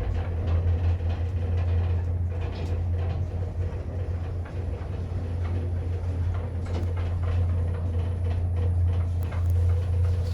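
Thyssenkrupp passenger lift car travelling after its sliding doors have shut: a steady low rumble and hum with faint rattles over it.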